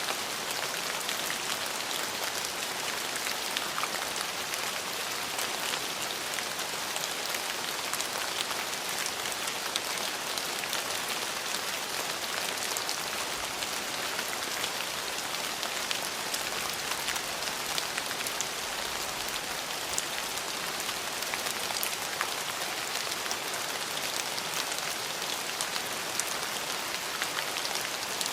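Steady rain falling on hard surfaces, a dense even hiss dotted with many sharp individual drop taps.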